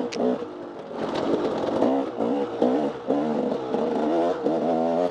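Off-road dirt bike engine revving up and down over and over as the throttle is worked on and off through the trail, with a sharp knock just after the start.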